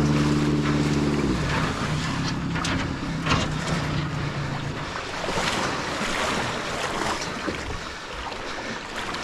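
Boat engine revved high for about a second, then dropping back and running lower until it dies away about halfway through, leaving wind noise and water splashing. This is the power run of a boat pulling another free.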